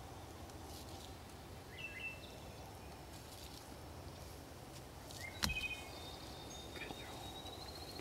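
Faint bird calls in a quiet outdoor background: short high chirps about two seconds in, more from about five and a half seconds, then a long thin high call near the end. A single sharp click about five and a half seconds in.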